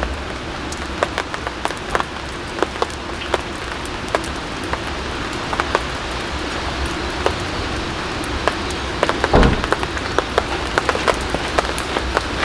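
Steady rain, with single drops ticking sharply on a surface against the hiss; a low thud about nine seconds in.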